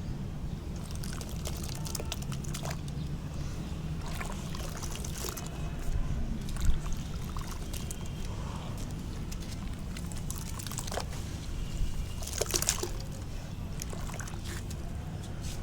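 Soft sand-cement crumbling as it is dipped in water, sloshing and trickling with scattered small crackles. Two louder bursts of crumbling come about six and about twelve seconds in.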